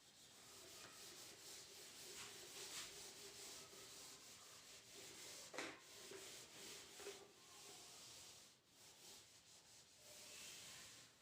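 Faint rubbing of a board duster across a writing board, wiping off a written answer in uneven strokes.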